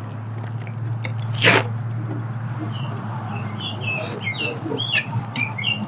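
Small birds chirping in quick, short, curving calls from about three seconds in, over a steady low hum. A few light clicks and one short, sharp burst of noise come about one and a half seconds in; the burst is the loudest sound.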